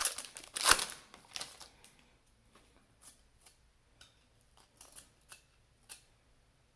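Trading cards and a foil pack wrapper being handled: a crinkly rustle in the first second or so, then soft slides and light taps as the cards are flipped through.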